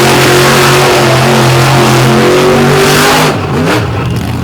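Monster truck engine held at high revs, loud and steady, then the throttle comes off about three seconds in and the sound drops away.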